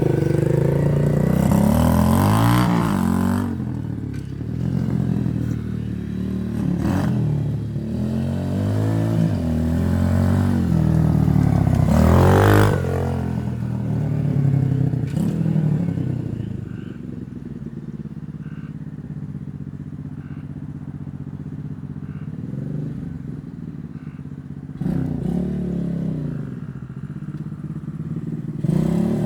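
X-Pro 125 pit bike's small single-cylinder four-stroke engine, fitted with a 22mm carburetor, being ridden: it revs up and down repeatedly, settles to a lower, steadier run about halfway through, then revs up again near the end. There are a couple of sharp clatters in the first half.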